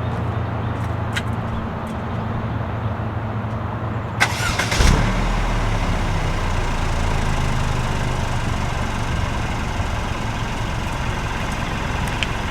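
2018 Mercedes-Benz E300's turbocharged four-cylinder engine started with its QTP exhaust cutout valves closed. A click comes about four seconds in, then the engine catches with a brief flare and settles into a steady, pretty quiet idle.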